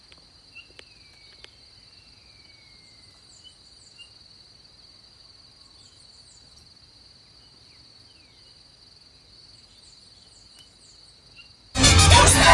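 Insects, cricket-like, giving a steady high buzz, with a few short bird chirps and whistles now and then. Music starts suddenly near the end.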